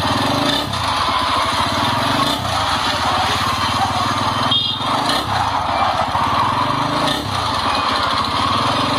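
A small motorcycle engine running steadily. Its pulsing note dips and picks back up several times, at about a second in, two and a half, five and seven seconds in.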